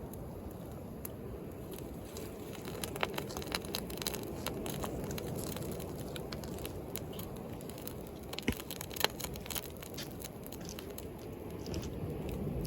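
Wood bonfire crackling, with scattered sharp pops clustered about three seconds in and again near nine seconds, over a steady low wash of sea waves.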